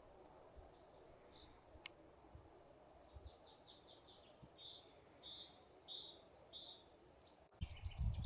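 A small songbird singing a fast run of high, repeated short notes for about four seconds, faint over steady forest ambience. A single sharp click comes about two seconds in, and near the end the sound breaks off and a louder low rumble comes in.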